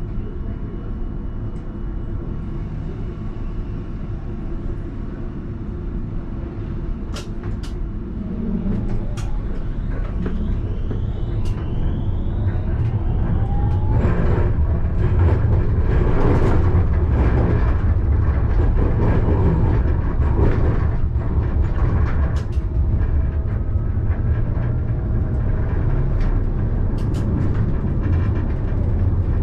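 Alstom Citadis tram running on the rails, heard from inside the driver's cab: a steady low rumble that grows louder partway through, with a faint rising whine and scattered sharp clicks.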